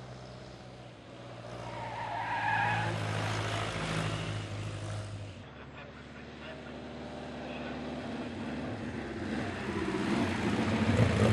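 Vintage racing car engines running hard on a hill climb, the engine note swelling about two seconds in and again louder near the end, with a brief high squeal around two to three seconds in.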